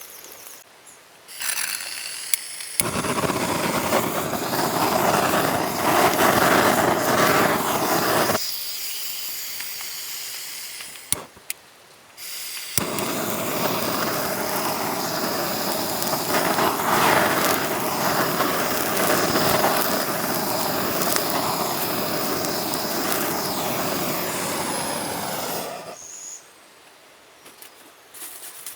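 Gas cooking flame hissing steadily in two long stretches, each switched on and off abruptly, as a tortilla pizza is cooked.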